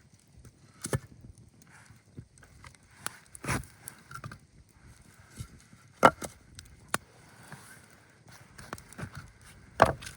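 Wood being chopped: four sharp, loud knocks a few seconds apart, with smaller snaps and clicks between them.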